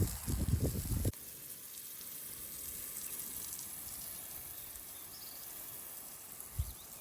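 Irregular low rumbling, like wind on the microphone, for about a second that cuts off abruptly, then a faint steady outdoor hiss with one short low thump near the end.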